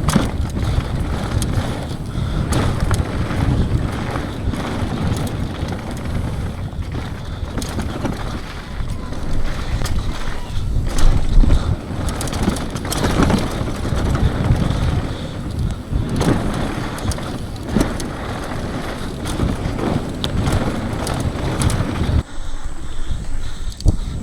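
Downhill mountain bike ridden fast down a dirt bike-park trail: wind buffeting the microphone, tyres rumbling over the dirt and the bike rattling over bumps, with frequent sharp knocks. The noise eases briefly about two seconds before the end.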